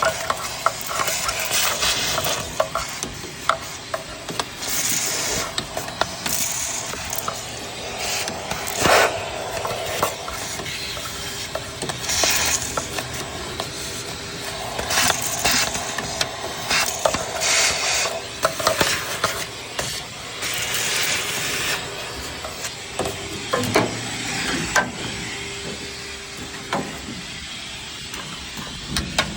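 Irregular clicks, clatters and short scraping noises of hand tools and parts being handled, with a faint steady hum underneath.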